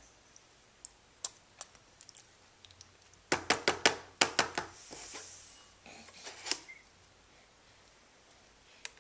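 Sharp little clicks and taps of a baby being spoon-fed: scattered single ticks, a quick run of about eight clicks a little over three seconds in, and a few more around six seconds.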